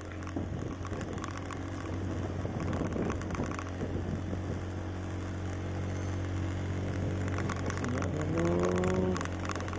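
Vehicle engine running steadily on the move, with scattered crackling noise over it. A brief pitched sound rises and falls near the end.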